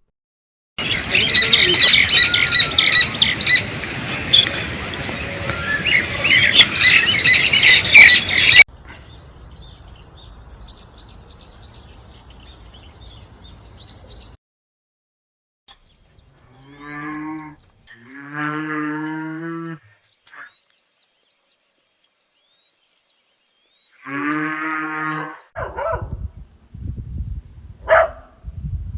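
A dense chorus of many birds chirping, loud for about eight seconds and then fading to faint chirps, followed by a cow mooing three times. A few short sharp sounds come near the end.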